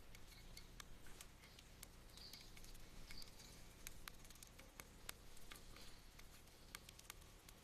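Near silence with faint, irregular light clicks and ticks over a low hum.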